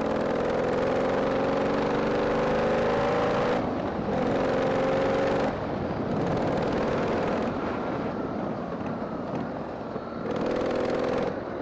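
Harley-Davidson Sportster 883's air-cooled V-twin engine pulling hard under acceleration, its pitch climbing in two steps with short breaks about four and five and a half seconds in where it shifts up. It then runs more quietly at a steady speed before picking up again near the end.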